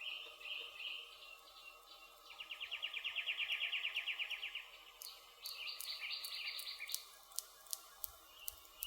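Woodland birds singing over a crackling campfire. A fast trill of about two seconds comes in the middle, with shorter songs before and after it, and from about five seconds in the wood pops sharply several times.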